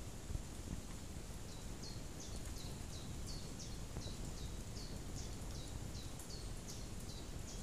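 A bird repeating short high notes, each dropping in pitch, about three a second, starting about a second and a half in, over faint outdoor background noise.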